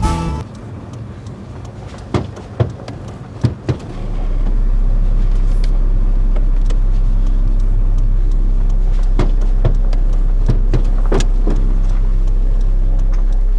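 A few short clicks and knocks, then about four seconds in a truck engine starts and runs steadily with a deep, low hum.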